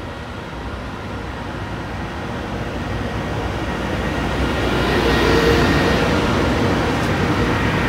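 FS class E652 electric locomotive hauling a container freight train past the platform. It grows steadily louder as the locomotive draws level about four to five seconds in, then holds as a rumble with steady whining tones while the wagons roll by.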